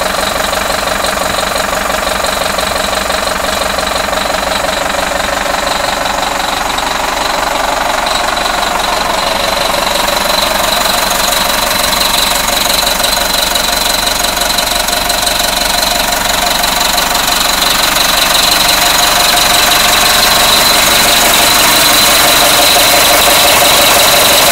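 1996 Oshkosh refuse truck's engine running steadily, with a steady high-pitched whine over it. It grows a little louder about three-quarters of the way through.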